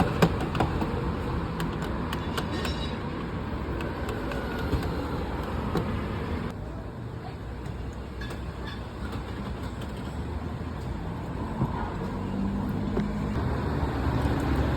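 A train ride in motion, running with a steady low rumble, with a few clicks near the start.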